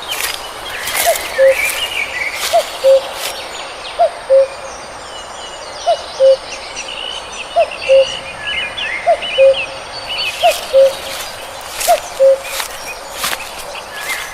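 Birdsong in woodland: a low, hoot-like two-note call, a short rising note then a steady one, repeated about every one and a half seconds, over higher chirping from other birds. A few sharp clicks come through now and then.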